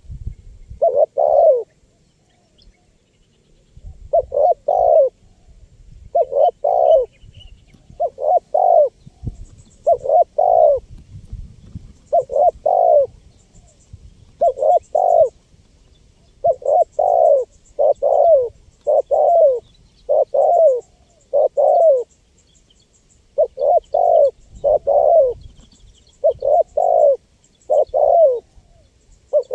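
Spotted dove (tekukur) cooing over and over in phrases of two or three coos, about one phrase every two seconds, with short breaks about two seconds in and again near 22 seconds. Faint, fast high chirps run in the background.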